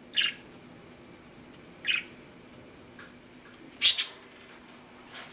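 Pet parakeet giving three short calls about two seconds apart, the last one the loudest.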